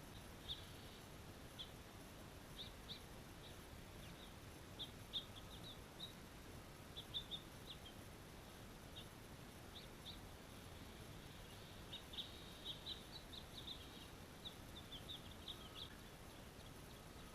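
Pet birds chirping: short, high chirps, a few at a time, coming in scattered clusters, faint over a steady background hiss.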